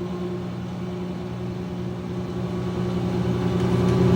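2006 GE Profile Harmony top-loading washer in its spin cycle: a steady motor hum that grows louder over the second half as the drum picks up speed.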